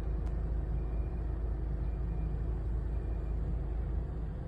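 City street noise: a steady low rumble of traffic.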